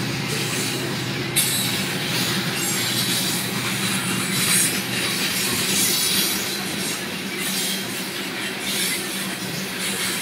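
Loaded coal hopper cars of a freight train rolling past: a steady rumble and clatter of steel wheels on the rails, with a faint high wheel squeal.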